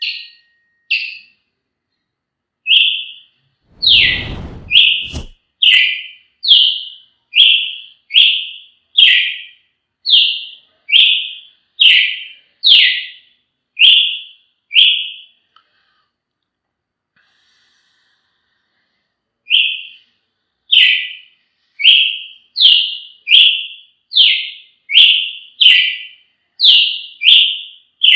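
Brazilian tanager (tiê-sangue) singing: a long series of short, clear whistled notes, about one and a half a second, pausing for a few seconds midway and then going on. A brief low rumble sounds about four seconds in.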